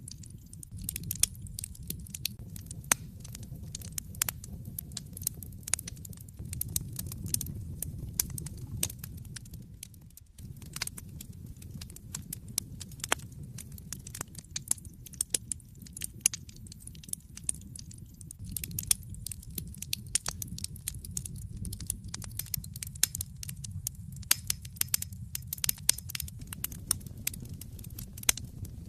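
Wood fire burning in a fireplace, with a steady low rumble of flames and frequent sharp crackles and pops from the logs. The sound briefly dips about ten seconds in.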